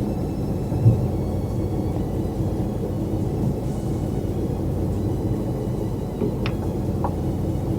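Steady low drone of a fishing boat's engine running, with one dull knock about a second in.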